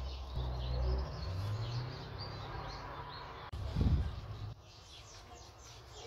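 Birds chirping repeatedly in the background over a low rumble, with one dull thump about four seconds in.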